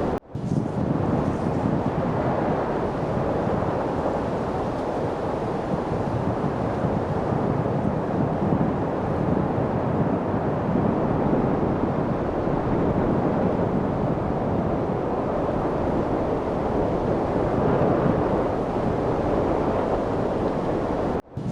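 Steady wind noise, a dense even rush with most of its weight in the low and middle range. It cuts out for a split second just after the start and again just before the end.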